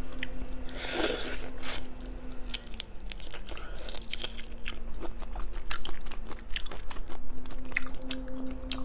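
Close-up chewing and biting of shellfish, with wet crunches and many small sharp clicks as the food is worked in the mouth.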